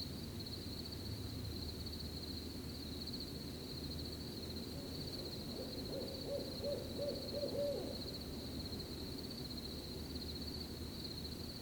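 An owl hooting, a quick run of about six short hoots about six seconds in, over a steady, pulsing cricket trill.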